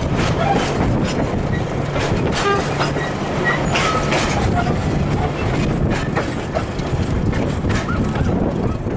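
Train running: a steady low rumble with a hum, broken by scattered clicks and clanks.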